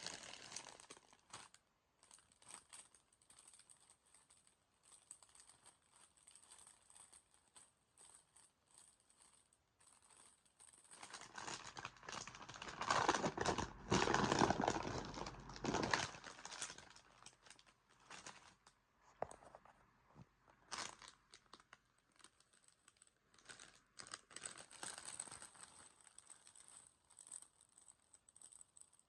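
Crisp bag crinkling as it is handled, in scattered short crackles, with a louder stretch of crinkling and tearing near the middle.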